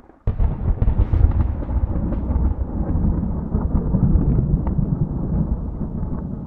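Thunder rumbling, starting suddenly about a third of a second in after a brief silence and carrying on heavily, with sharp crackles through the rumble.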